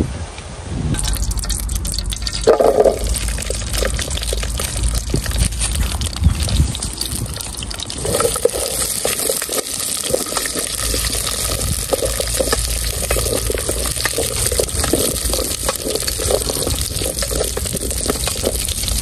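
Chilies, garlic and leaves sizzling in hot oil in an aluminium pot over a wood fire, a steady crackling hiss that starts about a second in, with a wooden spatula stirring them.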